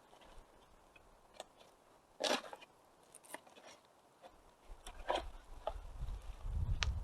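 Wood fire crackling, with scattered sharp pops, one louder snap about two seconds in. A low wind rumble on the microphone sets in about two-thirds through and grows louder near the end.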